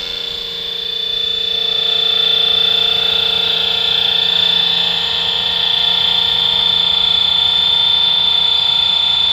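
Scale RC helicopter flying: a steady high-pitched whine over a lower hum from its drive and rotors, growing louder over the first two seconds and then holding steady.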